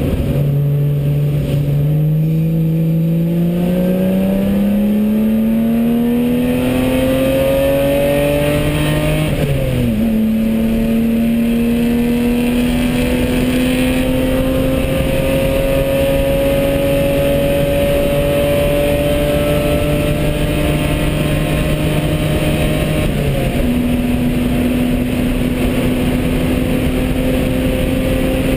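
BMW E30 race car's straight-six heard from inside the cabin under full throttle. The engine pitch rises steadily, drops sharply at an upshift after about nine seconds, climbs slowly for a long stretch, then eases off near the end. Road and tyre noise run underneath.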